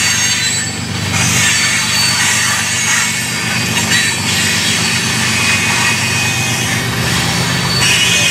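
Train rolling past, its steel wheels running loud and steady on the rails.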